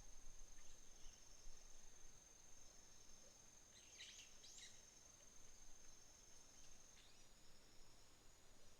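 Faint autumn insects, crickets, holding one steady high-pitched trill, with a few short bird chirps over it, the clearest pair a little after four seconds in.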